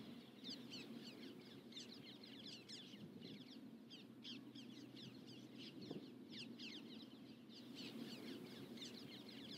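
Faint chorus of birds: many short, falling chirps overlapping throughout, over a faint low background hum.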